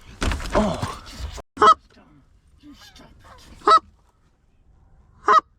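Canada geese honking close by: three loud single honks, about two seconds apart. Near the start, a second-long rush of noise comes with a shouted "Oh!".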